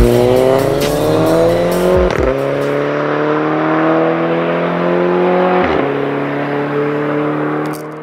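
Volkswagen Golf MK6 GTI's turbocharged 2.0-litre four-cylinder with a Bull-X titanium exhaust, pulling through the gears. The engine note climbs slowly and drops at an upshift about two seconds in and again near six seconds, then holds steady and fades out at the end.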